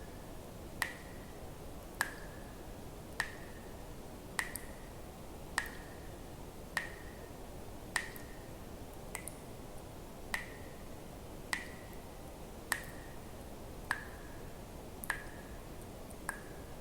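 Water drops falling into water one at a time at an even pace, about one every 1.2 seconds, each a sharp plink with a short ringing tone, over a faint steady hiss.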